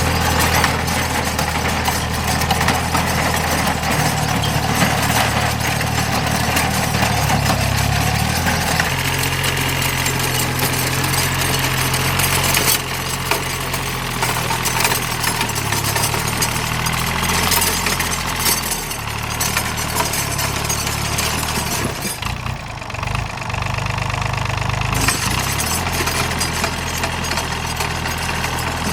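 Tractor engine running steadily, its pitch and tone shifting abruptly a few times.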